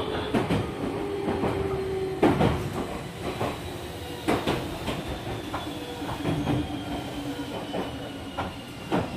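Running noise heard inside a Meitetsu 5000 series commuter car, whose traction gear sounds like that of the 1000 series Panorama Super. There is a steady rumble, wheels clack irregularly over rail joints, and a faint high whine slowly falls in pitch.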